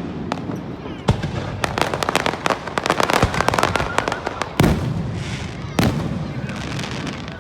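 Aerial fireworks bursting: a boom about a second in, then a dense run of rapid crackling pops for about three seconds, followed by two more booms.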